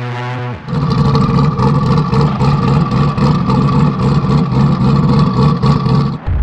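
Twin-turbo C8 Corvette V8 running loud and rough at a steady, held engine speed, coming in about a second in and cutting off abruptly just before the end.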